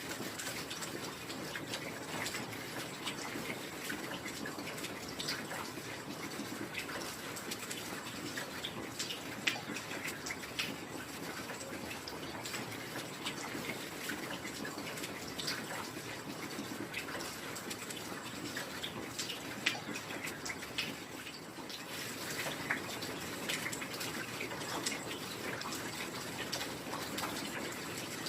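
Heavy rain falling steadily: a constant hiss with many sharper individual drops and drips ticking out of it.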